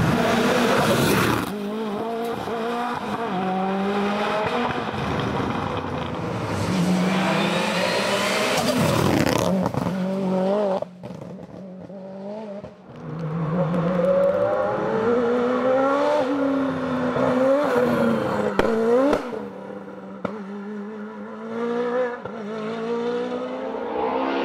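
Race car engines at full throttle, pitch climbing and dropping again and again through gear changes as the cars pass, with a quieter stretch about eleven seconds in.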